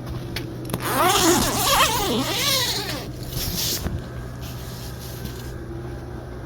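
Sunster Toolbox diesel heater running with a steady low hum. About a second in, a loud two-second burst of rustling and scraping with squeaky tones that rise and fall, then a shorter rustle.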